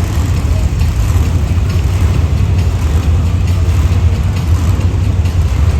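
Monster truck engine running steadily with a loud, low rumble.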